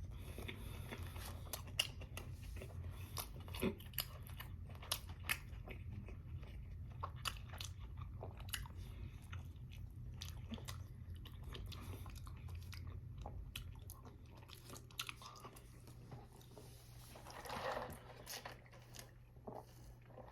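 Close-miked chewing of a mouthful of bacon cheeseburger (a Wendy's Baconator), with many small irregular wet mouth clicks and smacks that thin out in the last few seconds. A low steady hum sits underneath.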